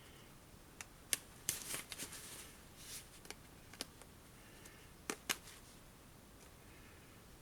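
Stitches being cut with a seam ripper while a backpack seam is unpicked: a handful of small, sharp snaps at uneven intervals, with light fabric rustling between them.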